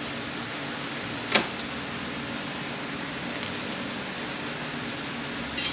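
Steady fan-like hum and hiss of the shop, with one sharp click about a second and a half in and a brief rattle of clicks near the end.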